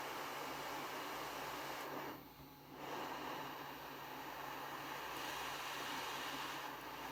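Hot air rework station blowing a steady hiss of hot air onto the console's board to reflow the solder under a new HDMI port. The hiss drops away for about a second, two seconds in, then comes back.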